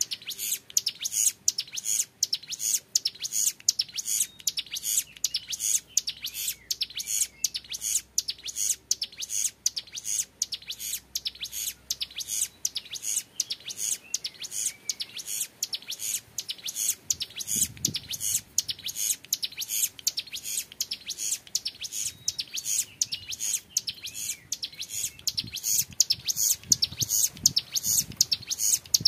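Young male ciblek gunung (hill prinia) singing a long, unbroken 'ngebren' run: a fast string of sharp, high chirps at about three or four a second.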